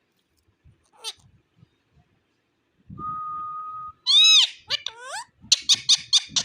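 Indian ringneck parakeet calling: one brief call about a second in, a steady held whistle about three seconds in, then a run of loud, rising-and-falling calls in quick succession.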